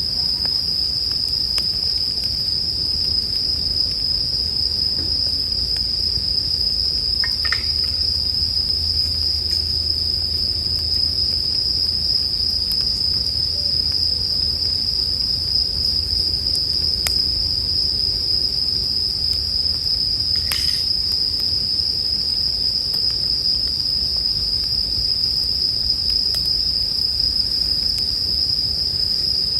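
Japanese bell crickets (suzumushi) singing in a steady, unbroken high-pitched chorus. Under it is a low steady rumble, with two faint campfire crackles, one about a quarter of the way in and one about two-thirds in.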